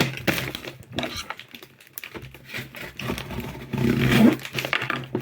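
Hands handling and working at a cardboard box to get it open: scattered scrapes, taps and rustles, busiest near the end, over a faint steady low hum.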